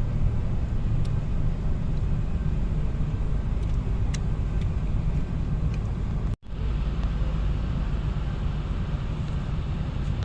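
Car on the move: a steady low rumble of engine and road noise. It drops out abruptly for a moment about six seconds in, then carries on unchanged.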